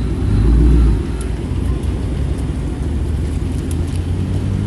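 Exhaust of a 2021 Dodge Charger Scat Pack's 6.4-litre HEMI V8 with the mid muffler deleted: a deep rumble that swells louder for about a second, as in a short burst of throttle, then settles back to a steady drone.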